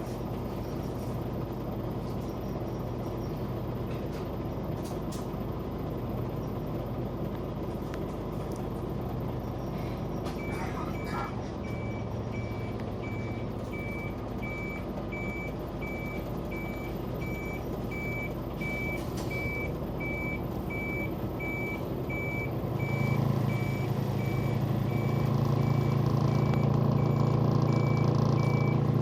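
Scania Omnicity single-decker bus with its diesel engine idling; about ten seconds in, its reversing alarm starts a steady repeating high beep that runs on, and near the end the engine gets louder as it pulls under load.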